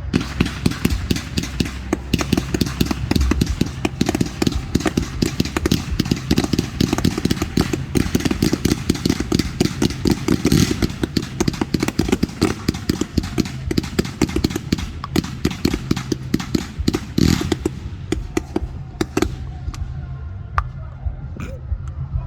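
Fireworks going off in a rapid barrage of bangs and crackles, thinning to scattered pops over the last few seconds.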